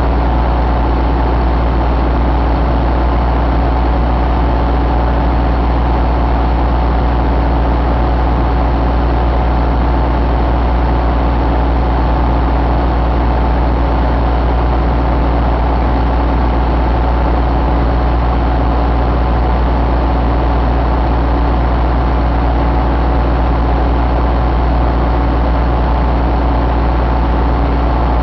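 Isuzu 4JB1 four-cylinder diesel engine idling steadily, a deep even running sound that does not change.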